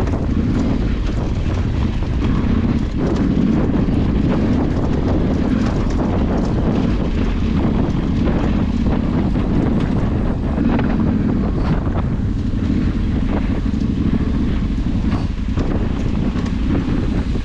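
Wind buffeting the microphone of a moving off-road ride, with a steady low drone and scattered knocks and rattles from rough ground.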